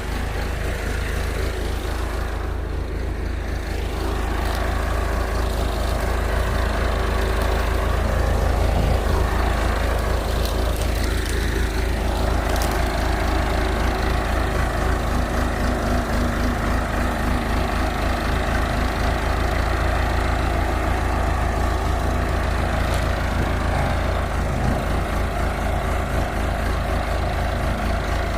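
Backhoe's diesel engine running steadily with a deep rumble as the machine works, its note falling once about eleven seconds in.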